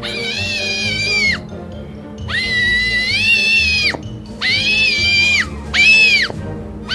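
Pet owl giving four drawn-out whining calls that sound like a power drill, each rising, holding level and dropping away, as it defends its toy from its owner. Background music plays underneath.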